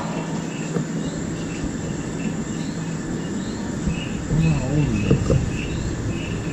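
An insect chirping steadily in the background, a short high chirp about one and a half times a second.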